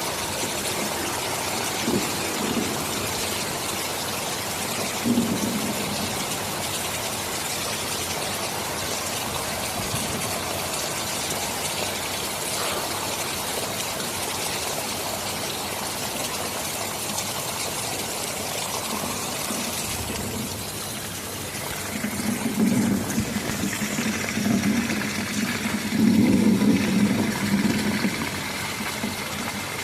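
Steady heavy rainfall hissing throughout. About two-thirds of the way in, a low rolling rumble of distant thunder swells for several seconds, then dies back to the rain.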